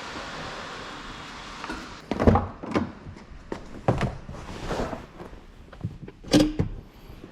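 A steady hiss that fades out about two seconds in, followed by a series of irregular knocks and clunks, the loudest about two seconds and six seconds in.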